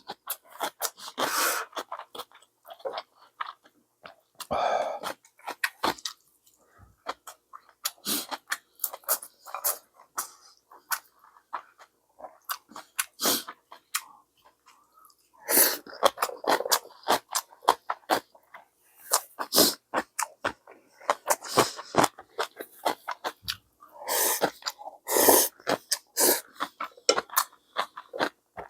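A person eating ramyeon and rice, with chewing and smacking in many short, irregular clicks. A few longer bursts come about halfway through and again near the end.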